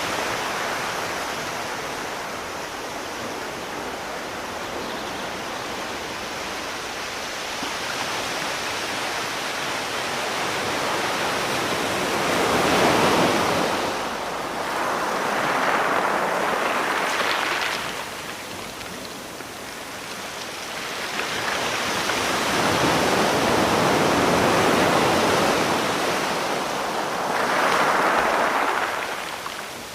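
Sea surf: a steady wash of water, with larger waves swelling up and breaking four times in the second half.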